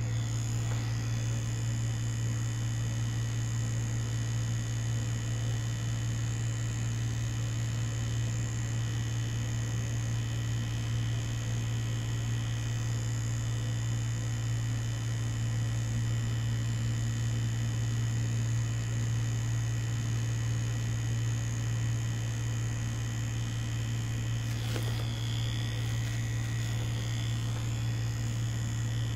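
Tattoo machine (Mummy Anubis) running with a steady, even buzz, with one brief click near the end.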